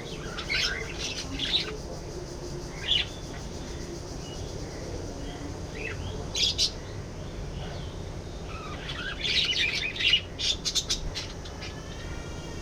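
Budgerigars chirping in short, scattered bursts, with a busier run of chirps about nine to eleven seconds in, over steady low background noise.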